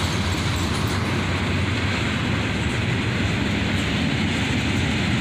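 Freight train's tank cars and covered hoppers rolling past: a steady rumble of steel wheels on the rails.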